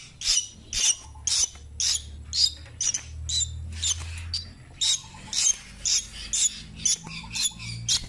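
Fledgling songbird giving repeated short, harsh squawking calls, about two a second, with a brief pause a little past halfway. These are the young bird's calls for its parent.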